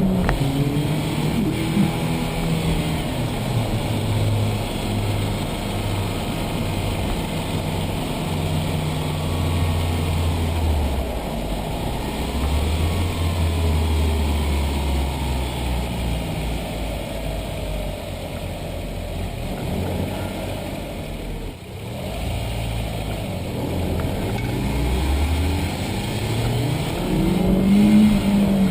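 B5 Audi A4 1.8T's turbocharged four-cylinder engine running while the car is driven, its note holding for a few seconds at a time and then stepping up or down as the revs change.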